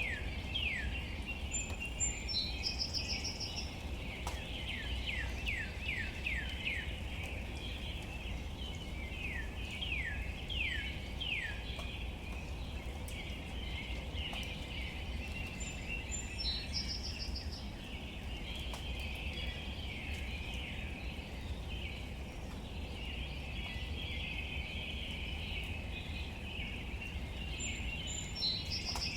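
Outdoor nature ambience: birds calling over a steady high hiss and a low rumble. A run of quick sweeping calls fills the first dozen seconds, and a short high trill comes back about every 13 seconds.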